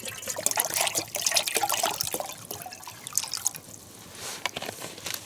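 Campfire crackling and spattering, with a pot of water just set on it; dense quick crackles that thin out about four seconds in.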